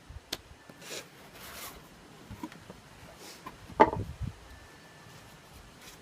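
Model box and packaging being handled: rubbing and scraping with scattered small clicks, and one louder knock just before four seconds in.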